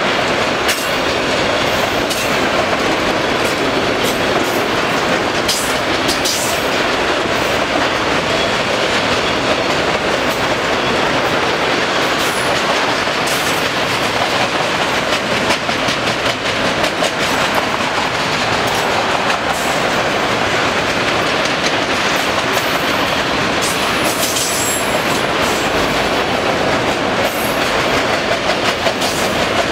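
A freight train of empty autorack cars rolling past: a steady rumble and rattle of steel wheels on rail, with clickety-clack over the rail joints and a few brief high-pitched wheel squeals.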